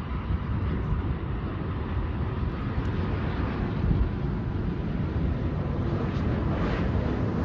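Jet airliner engine noise, a steady rush with a fluctuating low rumble, mixed with wind buffeting the microphone.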